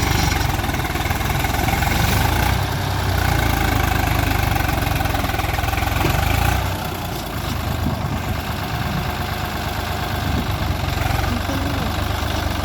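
Swaraj 744 tractor's three-cylinder diesel engine running loudly and steadily, easing off slightly about halfway through.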